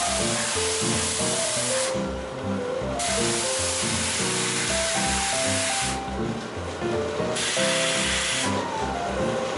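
A pressurized washing spray hissing as it degreases a motorcycle brake master cylinder. It is cut off three times: about two seconds in for a second, near six seconds for over a second, and again near the end. Background music with a melody plays throughout.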